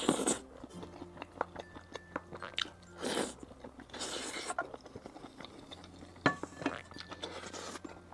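Close-miked eating: a person chewing a mouthful of rice mixed with crunchy spicy gluten strips, with many small wet mouth clicks and a few short breathy slurps and breaths between bites.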